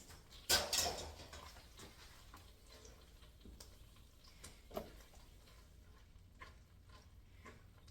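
Kitchen items being handled: a short clatter about half a second in, then scattered faint ticks and clicks.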